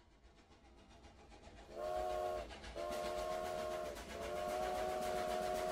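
Train whistle sounding a chord of several notes in three blasts, short, a little longer, then long, over the rhythmic running of a train that fades up at the start.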